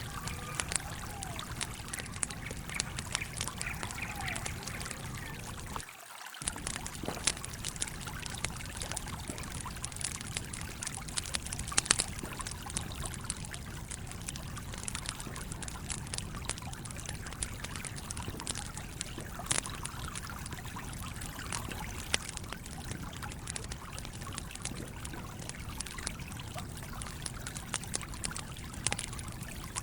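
Campfire crackling with scattered sharp pops over the steady rush and trickle of a flowing stream. The low rush cuts out for an instant about six seconds in.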